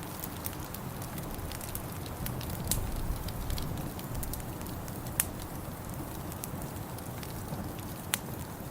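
Wood fire crackling in a fireplace: scattered small clicks with a few sharper pops, over a steady low rumble that swells briefly about three seconds in.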